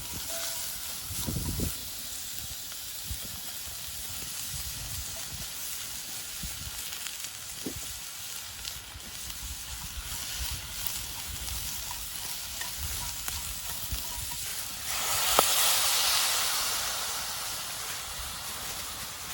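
Ingredients sizzling as they are stir-fried in a pot over a campfire. The sizzle swells suddenly about fifteen seconds in, with one sharp knock, then slowly dies down.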